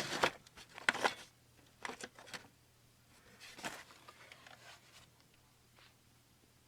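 A few sharp plastic clicks and knocks from the Floating Reaper animatronic being handled during a test. After the first couple of seconds they thin out to faint scattered ticks.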